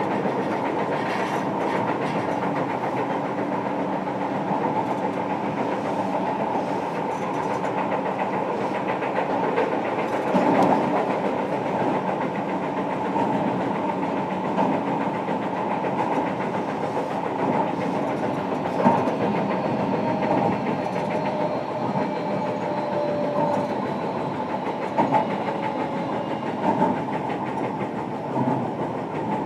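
Cabin running noise of a JR Kyushu 305 series electric train, recorded inside motor car MoHa 305-5: a steady rumble of wheels on rail with a few sharp clacks at rail joints. At times a faint steady whine, plausibly from the Toshiba permanent-magnet traction motor drive, can be heard.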